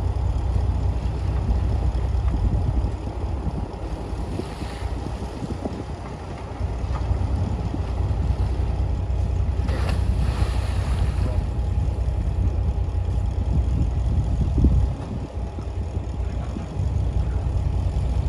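Heavy diesel engine of a bulldozer running with a steady low rumble, easing off briefly twice before picking back up.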